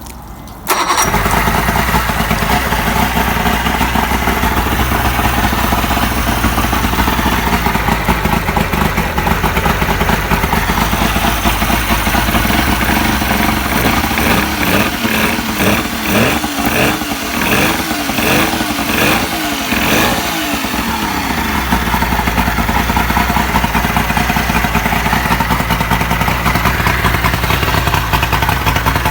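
Evinrude three-cylinder two-stroke outboard motor cranked and catching at once, about a second in, then running. Its revs rise and fall for several seconds in the middle before it settles back to a steady run.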